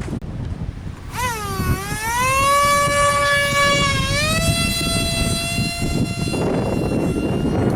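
Small 30 mm six-blade electric ducted fan whining. The whine starts about a second in, dips and rises in pitch, steps up again midway, then holds steady, as the throttle changes. Wind buffets the microphone throughout.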